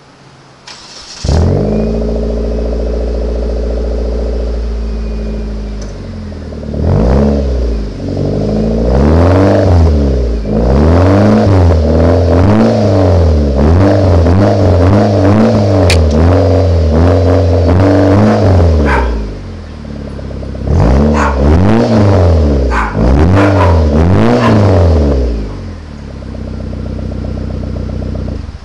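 2003 Mitsubishi Lancer ES four-cylinder engine through an aftermarket 'fart can' style muffler. It comes on suddenly about a second in and idles, then is revved again and again in quick rising-and-falling blips. It settles back to idle and cuts off suddenly near the end.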